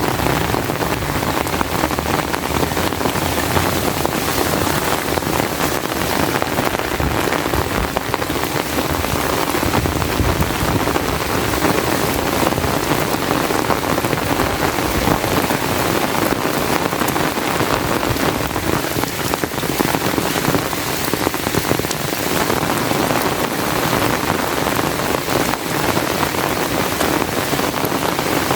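Steady, loud rainfall: a dense, even patter of raindrops.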